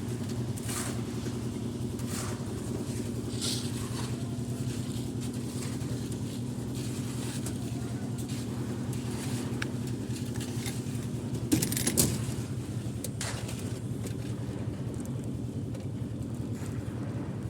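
Construction machinery engine running steadily, with scattered knocks and a loud metallic clank twice, about twelve seconds in.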